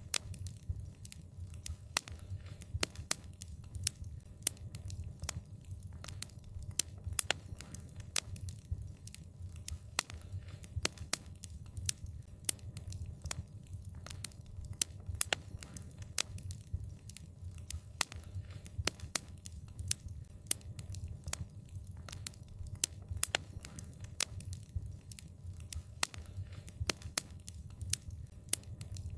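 Wood fire crackling, with frequent sharp irregular pops and snaps over a low steady rumble of the flames.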